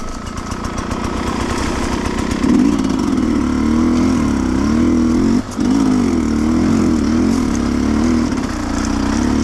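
Sherco 300cc two-stroke enduro motorcycle engine being ridden on a trail, its pitch rising and falling repeatedly as the throttle is worked. There is a brief drop in the engine sound about five and a half seconds in.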